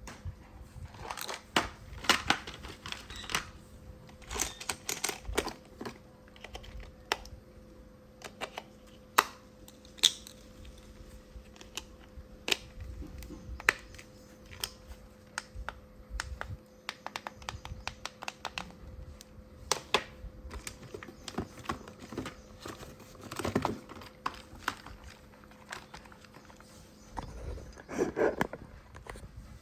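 Hands handling plastic toy parts and packaging: many irregular sharp clicks and taps, thicker in two short flurries near the end, over a faint steady hum.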